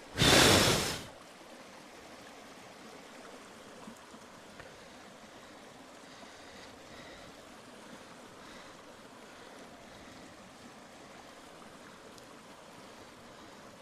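A loud rush of air lasting about a second right at the start, then a faint steady hiss with a couple of tiny crackles.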